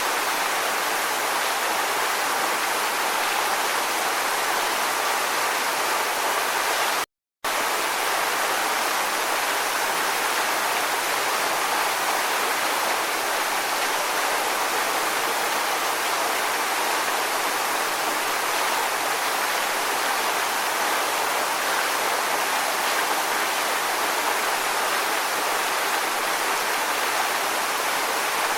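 Steady rushing water, an even hiss with no rise and fall of surf, that drops out completely for about half a second some seven seconds in.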